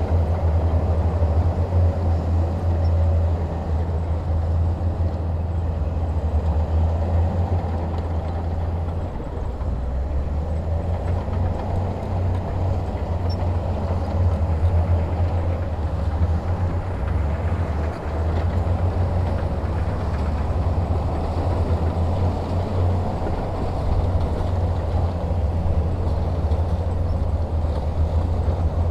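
Heavy diesel engine running steadily with a deep low rumble that eases slightly about nine seconds in.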